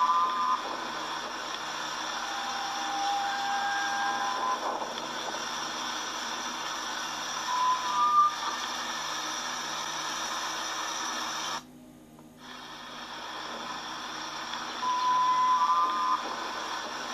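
Steady rushing roar of storm wind, with a few short whistling tones over it and a brief dip in level about twelve seconds in.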